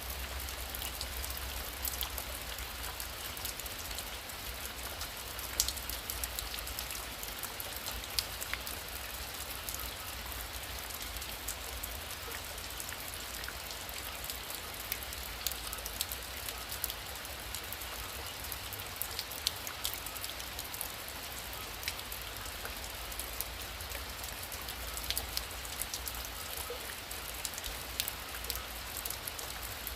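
Heavy rain falling steadily: a dense, even hiss dotted with many sharp ticks of single drops hitting a surface.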